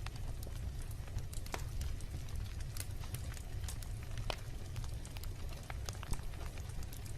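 Wood bonfire burning, with irregular sharp crackles and pops over a steady low rumble; the loudest pops come about one and a half, three and four seconds in.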